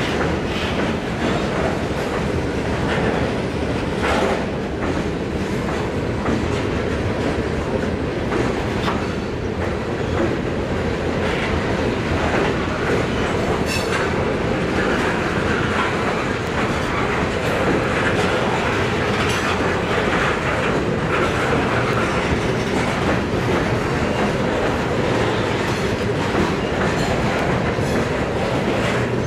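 Freight train cars rolling past at a steady pace: a continuous rolling noise of steel wheels on rail, broken by scattered clicks as the wheels cross rail joints.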